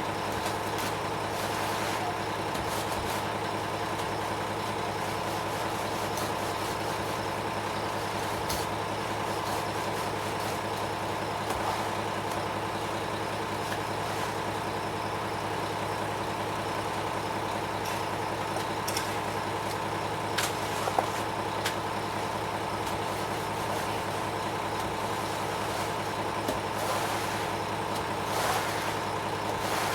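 Ready-mix concrete truck's engine running steadily with an even hum. A few short knocks come about two-thirds of the way through.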